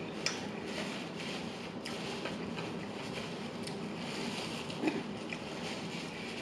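Close-miked eating sounds: a few soft wet mouth clicks and chewing noises over a steady background hiss.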